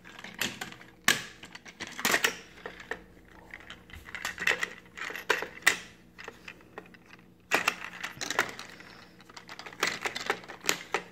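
Toy truck haulers being handled: irregular clicks, clinks and knocks of small hard parts, with a sharper knock about a second in and a busier run of clicks from about seven and a half seconds on.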